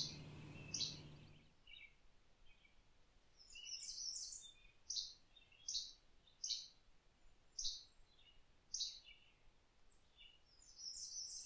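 A small bird chirping: a series of short, high, faint notes about one a second, with a quicker twittering run near the end.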